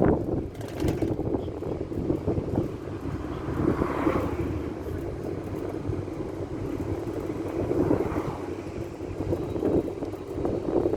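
An old Ford minibus driving, heard from inside its cabin: a steady rumble of engine and road noise that swells a little a few times.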